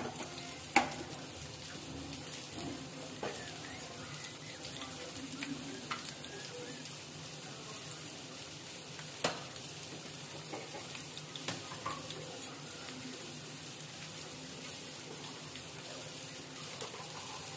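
Potato chunks frying in hot mustard oil in a kadai: a steady sizzle with occasional sharp pops, the loudest about a second in.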